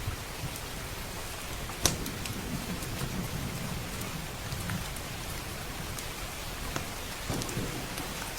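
Steady rain with a low rumble underneath, overlaid by scattered sharp crackles and pops from a wood fire; the loudest pop comes about two seconds in.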